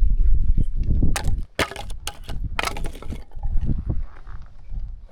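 A series of sharp cracks and knocks, about eight of them spread irregularly over three and a half seconds, after a heavy low rumble that stops about a second and a half in.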